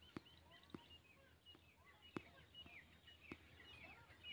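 Faint birds chirping in the background, many short repeated calls, with four soft clicks scattered through it.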